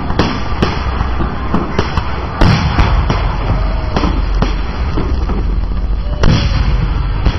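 Fireworks bursting in quick succession over a constant crackle, with two louder bangs, one about two and a half seconds in and one near the end.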